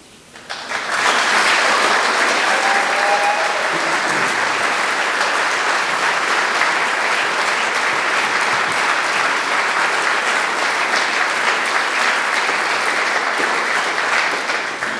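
Large audience applauding at the end of a song: clapping swells within the first second, holds steady, and begins to fade near the end.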